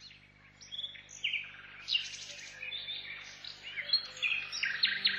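Songbirds chirping and trilling in many quick, short calls that overlap, over a faint steady low hum.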